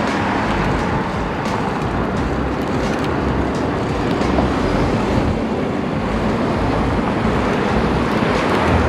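Steady rushing noise of riding a bicycle: wind buffeting the action camera's microphone, mixed with road noise, with a few faint clicks.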